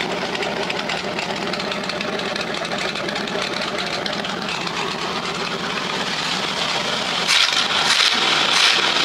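Ford 460 V8 with its factory Holley four-barrel carburettor running steadily just after being restarted hot, with the new choke staying open. It picks up and runs louder about seven seconds in.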